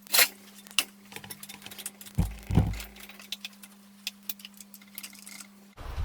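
Metal parts being handled: a run of light metallic clinks and clicks, with two heavier thumps a little past two seconds in, over a steady low hum. Near the end the sound cuts to a low rumbling noise.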